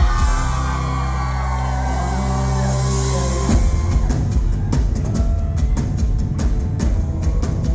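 Live rock band playing loud through a concert PA, heard from the crowd. A held, ringing chord with bending vocal and guitar lines gives way about three and a half seconds in to the full band and drums driving a steady beat.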